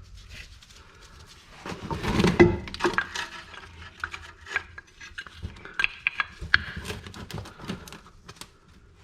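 Metal parts clinking, rattling and scraping as a brake pad is handled and fitted into the brake caliper, with a louder burst of clattering about two seconds in.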